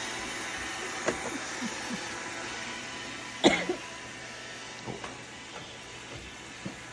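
Roomba robot vacuum running with a steady whir, with a few light knocks and one short, louder sound about three and a half seconds in.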